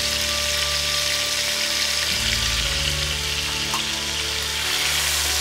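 Shrimp frying in hot oil in a pan, a steady sizzle, with spice powders and garlic paste just added on top. Soft background music with held notes runs underneath.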